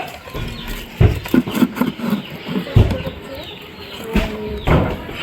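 Puppies scuffling over their food, with small animal noises and several knocks: about a second in, near three seconds, and twice more near the end.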